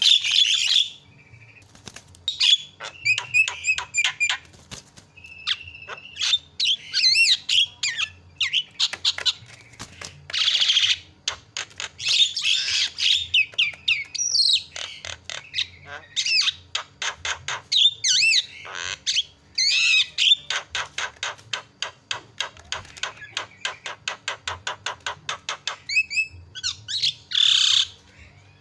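Javan myna (jalak kebo) calling continuously: a jumble of harsh squawks, chattering and whistled notes, with a long fast run of clicking notes in the second half.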